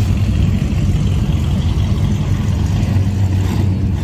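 Classic car engines running at low speed as the cars drive slowly past, a steady low engine note.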